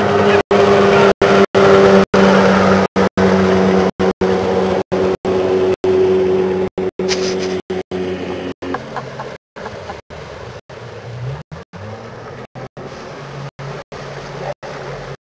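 Motorboat engine running steadily at speed. About nine seconds in its drone drops away to a quieter low hum. The sound cuts out in many brief gaps throughout.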